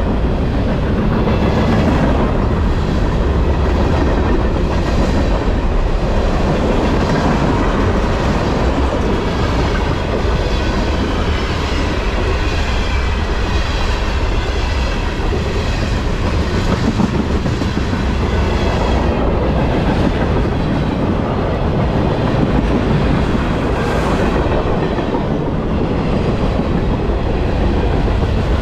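Canadian Pacific freight train rolling past close by: a steady, loud rumble and rattle of wheels on rail with a clickety-clack of the cars.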